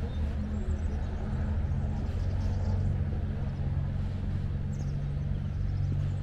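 Steady low hum of a motor vehicle's engine running at an even pitch.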